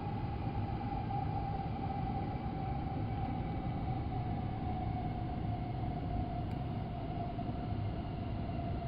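Running noise of an N700S Shinkansen heard inside a passenger car at speed: a steady rumble with a whine that slowly drops a little in pitch.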